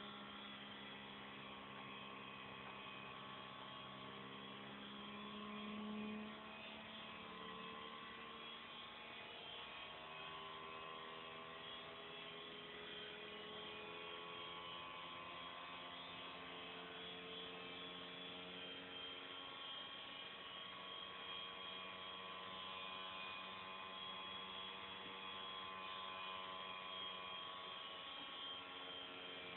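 Homemade DC pulse motor running: a hard-disk platter rotor with neodymium magnets, driven by Hall-sensor-switched coil pulses. It gives a steady hum whose pitch drifts slowly up and down, with a brief louder swell about six seconds in.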